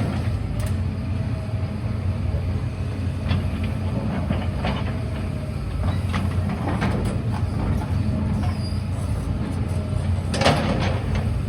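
Heavy diesel engine running steadily at a low hum, with scattered knocks and clanks, one louder near the end.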